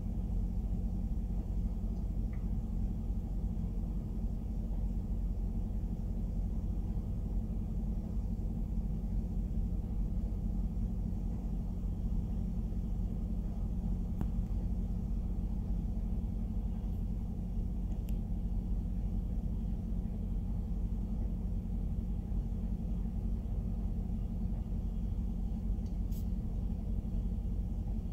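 Loaded covered hopper cars of a freight train rolling past, a steady low rumble of steel wheels on the rails.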